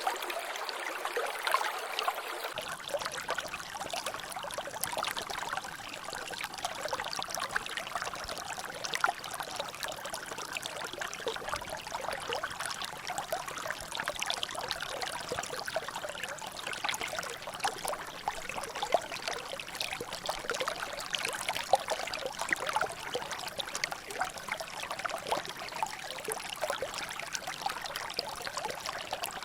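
Water trickling and dripping continuously in a small natural drainage channel, a dense patter of drops over a steady running-water hiss, with a few louder drops now and then.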